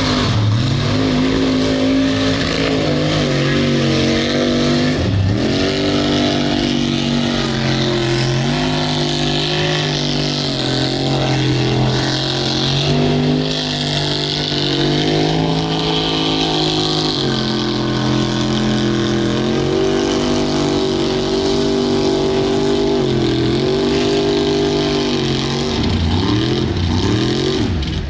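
Mud truck engine running loud at high revs under full throttle. The revs drop briefly and climb back several times, about half a second in, around five seconds, and twice near the end.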